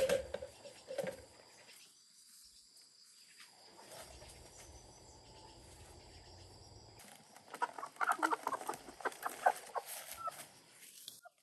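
Chickens clucking, with a busy stretch of short, rapid calls over the last few seconds.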